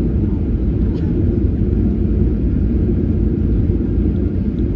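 Steady low rumble inside the cabin of a Boeing 737-800: its CFM56 engines and the airflow over the airframe during the landing.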